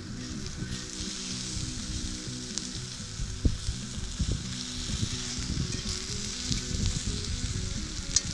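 Catfish and peppers frying in butter in a cast iron pan, a steady sizzle, with a few sharp knocks from about three seconds in as the fish is chopped up in the pan.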